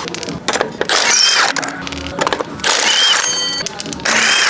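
Pneumatic tools at a tire shop, most likely an air impact wrench, run in about four short bursts, each with a whine that rises and falls as the tool spins up and down.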